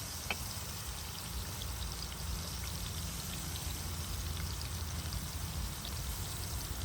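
Steady rush of running water, with faint scattered ticks.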